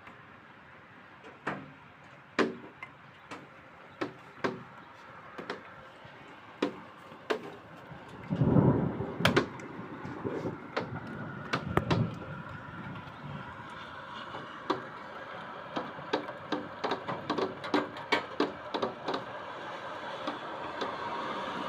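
Rain starting: drops hitting a hard surface as irregular sharp ticks that come faster and denser toward the end over a rising hiss. A brief low rumble comes about eight seconds in.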